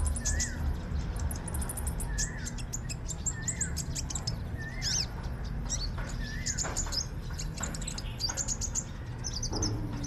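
Songbirds chirping: a short rising-and-falling call repeats about once every second or so for the first six seconds, among many quick high chirps. A steady low rumble runs underneath.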